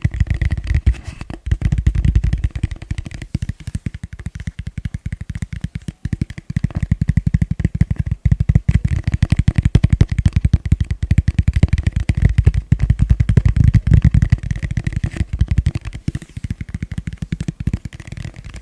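Fast, gentle tapping on a plastic bowl: a rapid, unbroken stream of light, dull taps, too quick to count.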